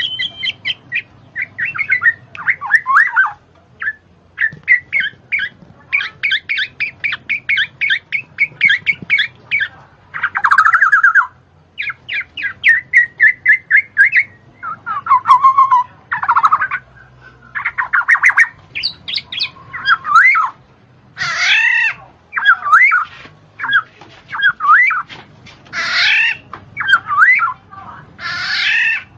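A bird singing loudly and continuously, in varied phrases of rapid repeated chirps, trills and sweeping notes with short pauses between them.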